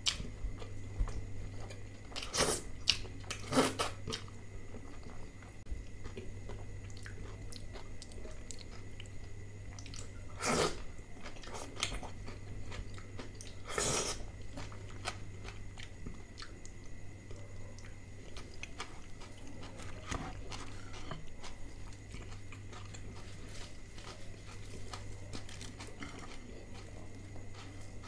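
Close-miked chewing of butter chicken pieces with wet mouth clicks and lip smacks, broken by a few louder short slurps and sucks as food and fingers go to the mouth, about a dozen seconds apart. A steady low hum runs underneath.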